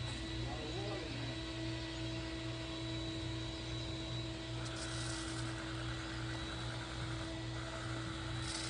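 A steady low mechanical hum, slowly pulsing, with a higher steady tone over it through the second half.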